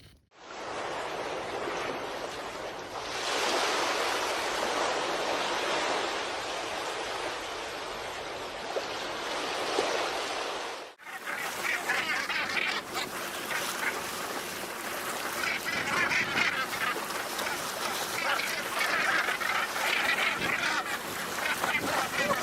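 A steady rushing noise, cut off abruptly about halfway, followed by a flock of waterfowl calling in many overlapping short honks and quacks.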